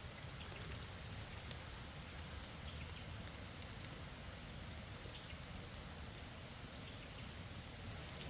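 Steady, faint rushing of a creek's running water, with a scattering of small ticks.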